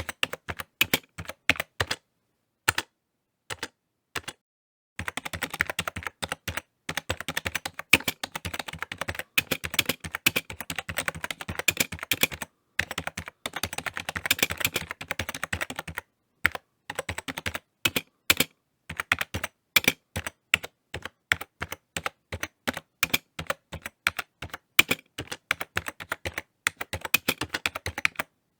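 Typing on a computer keyboard: fast runs of key clicks broken by short pauses, densest from about five to sixteen seconds in.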